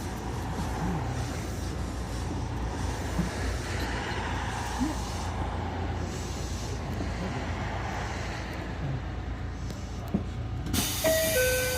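Ichibata Electric Railway 7000-series electric railcar running along the line, a steady rumble of wheels and running gear heard from inside the car. Near the end a repeating two-note chime starts.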